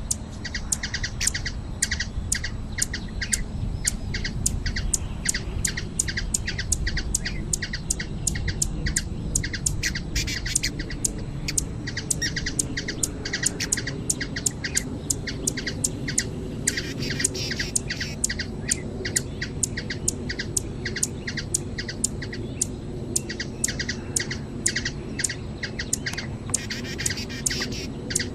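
Hummingbird calling in a steady series of sharp, high chips, about three a second, with brief spells of fainter twittering now and then over a low background rumble.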